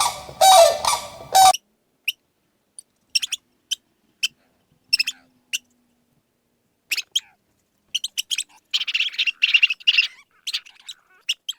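Bird calls: a few loud, harsh repeated calls that cut off abruptly, followed by scattered short, high chirps and a brief flurry of chirping near the end.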